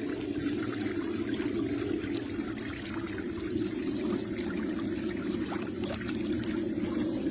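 Water running steadily, a continuous pouring rush with no break.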